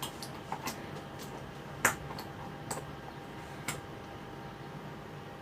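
A series of light, sharp clicks and taps at uneven intervals, the loudest about two seconds in, from small parts and tools being handled on a workbench while a capacitor is tested; they stop about four seconds in.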